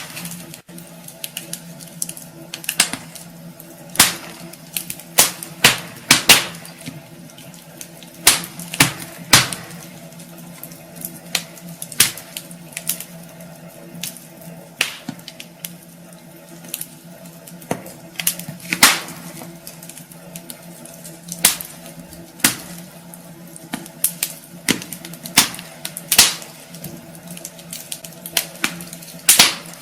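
Wood fire burning in a fireplace, crackling with irregular sharp pops and snaps, sometimes several in quick succession, over a steady low hum.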